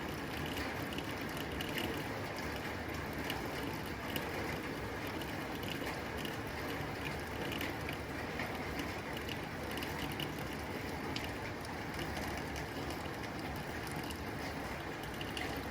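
Rain falling steadily on a tin roof: an even hiss sprinkled with many small, sharp taps of drops striking the metal.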